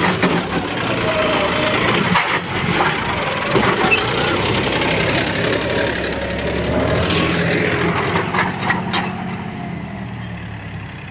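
Tractor engine running steadily under a heavy load, with voices mixed in. The sound eases off near the end.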